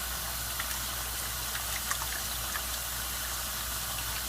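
Water being heated: a steady hiss with faint scattered ticks and pops.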